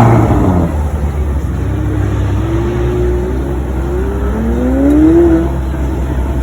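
Performance car engine starting with a sudden loud burst, then accelerating, its pitch climbing twice as it pulls through the gears, loudest about five seconds in.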